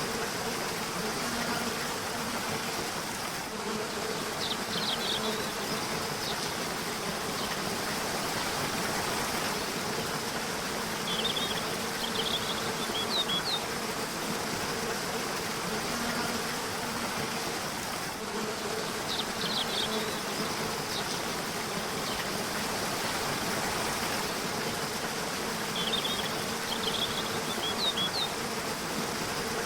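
River water rushing steadily, with short high bird chirps every seven or eight seconds, over a low buzzing hum that swells and fades.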